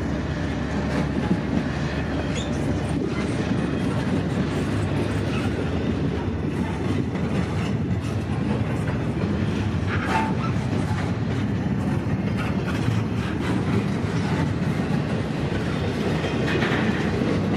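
Freight train passing: the steady running of CSX diesel locomotives and the clickety-clack of wheels over the rail joints as container well cars roll by.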